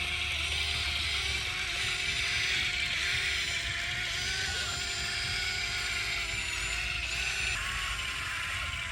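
YIGONG YG258C excavator running, its diesel engine and hydraulics making a steady mechanical drone with a few tones that waver slightly in pitch.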